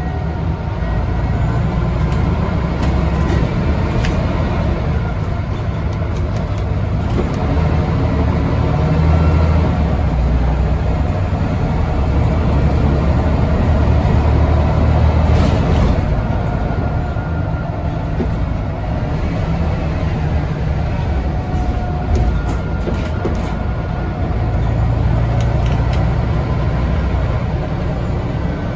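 Euro 3 Scania N94UD double-decker bus with a ZF automatic gearbox, heard from on board while driving: a steady diesel engine drone with cabin rattles. The engine note swells toward the middle, drops away suddenly a little after halfway, then builds again near the end.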